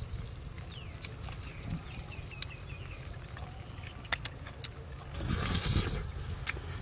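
Eating sounds from a man chewing a cooked goat leg: wet smacks and clicks of chewing, with a louder stretch of chewing noise about five seconds in, over a steady low wind rumble on the microphone.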